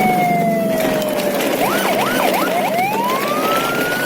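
Electronic siren sound: a long falling wail, then several quick rising whoops about halfway through, then a long rising wail, over a steady noisy background.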